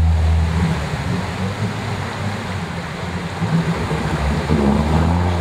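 Small off-road car's engine running at low revs as it wades through a muddy water hole, with water sloshing around the car.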